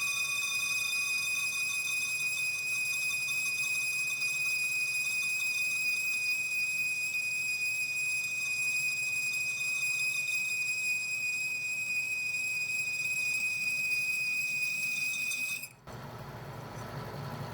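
Boring tool chattering in 304L stainless steel on a metal lathe, a steady high-pitched squeal like nails on a chalkboard that cuts off suddenly near the end.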